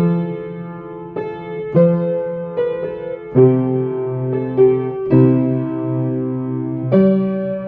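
Solo piano playing a slow Christmas carol, with sustained chords and melody notes struck about every second.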